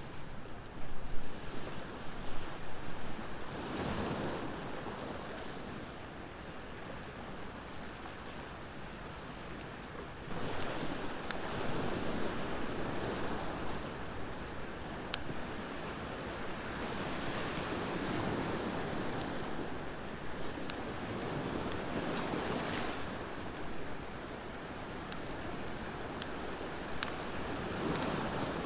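Ocean waves washing in and drawing back in slow swells, with the sharp pops and crackles of a wood bonfire scattered through, several louder pops about a second or two in.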